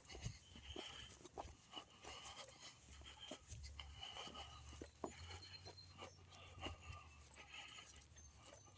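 Faint footsteps and scattered light clicks and rustles of walking on a woodland trail.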